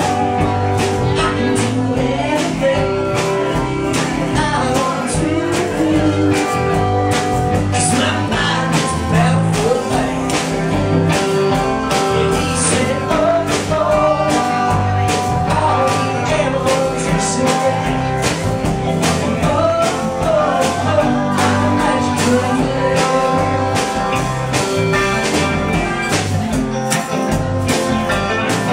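Live band playing an instrumental passage of an indie song: guitars over bass and a steady drum beat.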